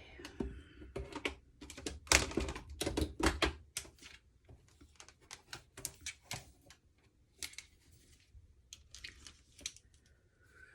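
A quick run of sharp clicks and short rustles from small objects being handled, busiest and loudest a couple of seconds in, then sparser. A steady whistling tone starts just before the end.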